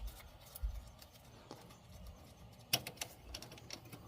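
Scattered light clicks and taps of hand work on the throttle linkage and kick down cable of a throttle-body injection unit, with the sharpest click about two-thirds of the way through.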